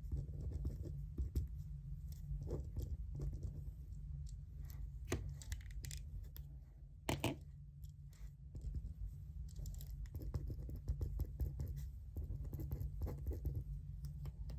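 Desk study sounds: pen strokes scratching on paper and paper being handled, a run of small irregular clicks and scratches with a sharper double tap about seven seconds in, over a steady low hum.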